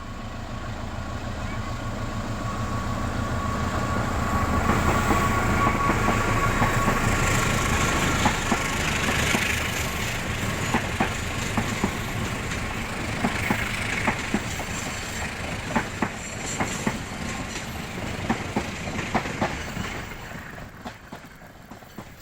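A train passing on the tracks, its rumble building over several seconds, then a long run of wheel clacks over the rail joints as the cars roll by, fading near the end.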